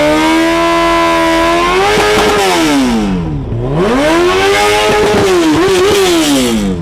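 Car engine being revved hard while parked: held high, then dropping and climbing back up, before falling away again near the end.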